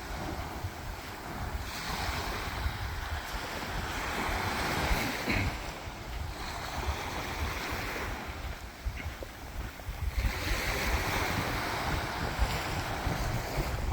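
Small sea waves breaking and washing up the shore, the hiss swelling and fading every few seconds, with wind rumbling on the microphone.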